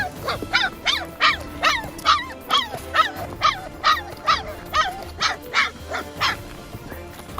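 A puppy yelping over and over, high cries that each fall in pitch, about two or three a second, stopping about six seconds in. Background music runs beneath.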